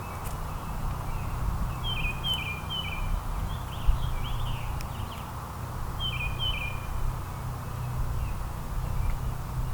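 Small backyard songbirds chirping in two quick runs of short high notes, the first about two seconds in and the second about six seconds in, over a steady low background rumble.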